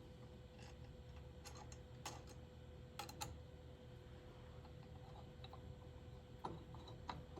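Faint, scattered light clicks of a small hand tool on metal, a few at a time with pauses between, over a low steady hum.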